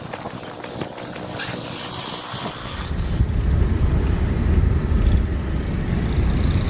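A vehicle driving through a snowstorm: a low rumble of road noise and wind that grows louder about three seconds in.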